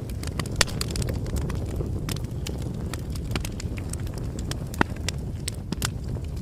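Bonfire crackling: a steady low rumble of burning with irregular sharp pops and snaps, two louder pops about half a second in and just before the five-second mark.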